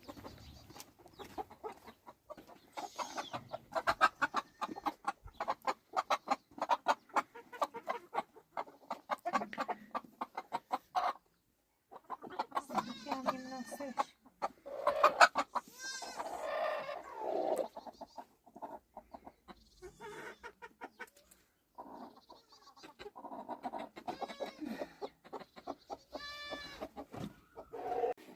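Chickens clucking in quick runs of short clucks, with several louder drawn-out calls mixed in.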